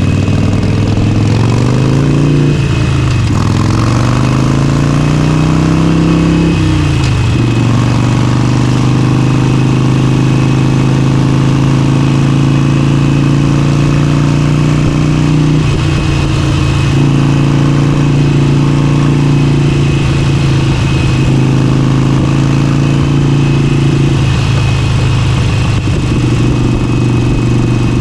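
Motorcycle engine under way: in the first seven seconds the note climbs, drops back, climbs again and drops, as it accelerates through gear changes. After that it holds a steady cruising note, with two brief dips later on.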